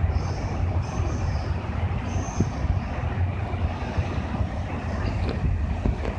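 Electric train running through a station: a steady rumble of wheels on rails with a few short clicks.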